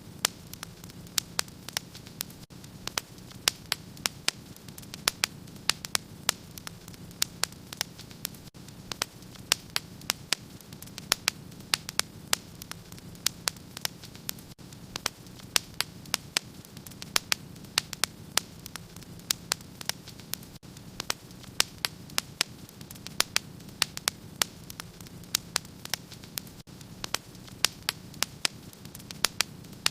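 Wood fire burning in a fireplace, crackling with sharp pops and snaps several times a second over the steady low noise of the flames.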